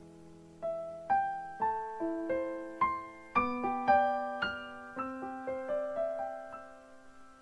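Background piano music: a slow melody of single struck notes, each ringing and fading, after a held chord dies away at the start.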